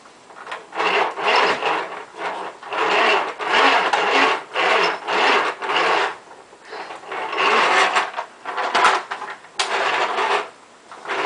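A vacuum pushed back and forth over the floor, with rasping bursts about once a second and quieter gaps between strokes.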